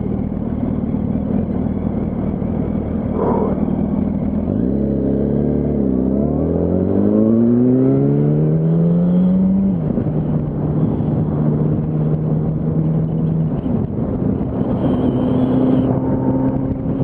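Yamaha R1's inline-four engine under way. About four and a half seconds in it pulls away with the revs rising for about five seconds, then drops pitch at an upshift and runs steady. Wind rushes over the microphone throughout.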